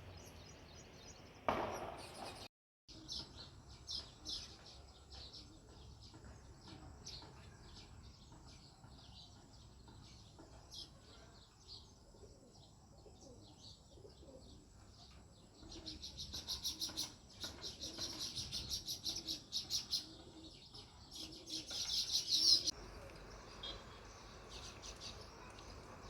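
House sparrows chirping, with short chirps throughout and two dense, fast runs of chirping in the second half. The second run cuts off suddenly. A brief rustling burst comes about a second and a half in, just before a short dropout in the sound.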